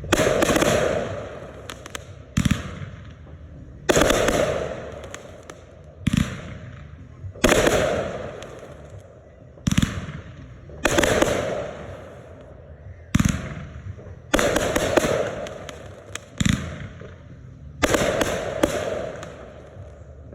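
Consumer firework mortar shells fired one after another: a sharp launch thump from the tube, then about a second and a half later the shell bursts overhead with a long fading tail. This repeats roughly every three and a half seconds, about six breaks in all.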